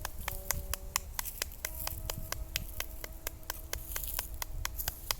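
Hands slapping the body in qigong patting self-massage: rapid, even slaps at about five a second.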